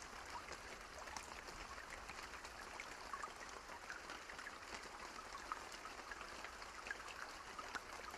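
Steady rain falling, with many individual drops ticking sharply against a constant wash of rain noise. No thunder.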